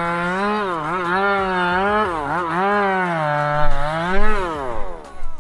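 A person's voice holding one long, wavering cry, about four and a half seconds, dipping in pitch a few times before it breaks off, followed by a few short loud sounds near the end.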